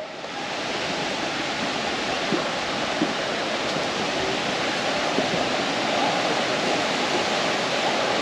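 Steady rushing of flowing water, like a creek or small waterfall, swelling up in the first second and then holding even.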